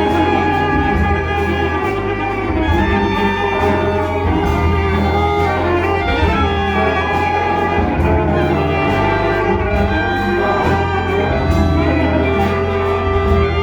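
Large improvising ensemble playing a dense layer of many held, overlapping tones over a steady low bass, with faint regular ticks above.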